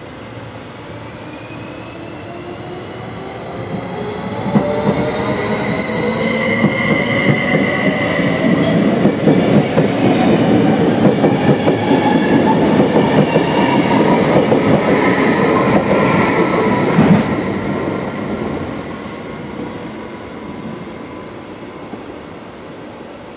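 Electric train passing through a station. Its rumble builds over a few seconds, stays loud for about a dozen seconds, then fades, with whining tones that climb in pitch as it builds. A sharp wheel click comes as the loud part begins, and another as it ends.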